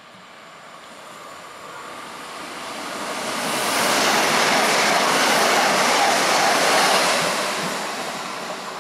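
Trenitalia regional multiple-unit train passing through a station without stopping: its running and wheel-on-rail noise builds as it approaches, is loudest for a few seconds in the middle as it goes by, then fades as it pulls away.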